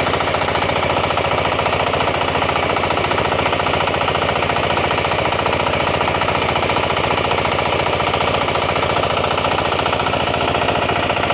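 Small engine running steadily at speed, driving a rice winnowing blower fan: a dense, rapid, even putter with the fan's rush over it.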